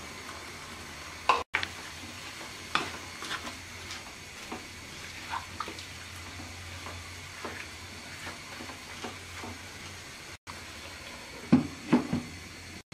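Shredded cabbage and potato sizzling steadily in a kadai, with scattered pops and crackles. Near the end come a few knocks as a lid is set on the pan.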